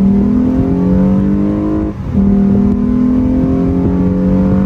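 Lexus IS350 F-Sport's 3.5-litre V6 under hard acceleration, heard from inside the cabin. The loud engine note climbs steadily in pitch. About two seconds in, the eight-speed automatic upshifts and the pitch drops, then it climbs again.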